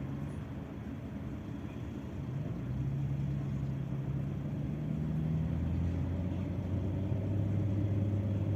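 A low engine hum that grows a little louder a couple of seconds in. Its pitch steps down to a lower steady tone about halfway through.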